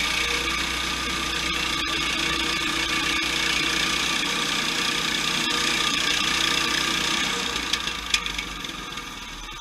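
Portable sawmill's engine running steadily, with a few sharp clicks near the end as the sound fades away over the last two seconds.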